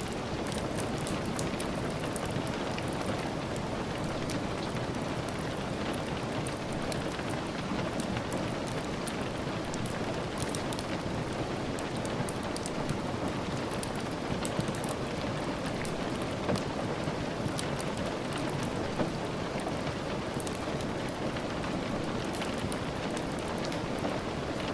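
Steady, even rain, with many small sharp ticks scattered through it.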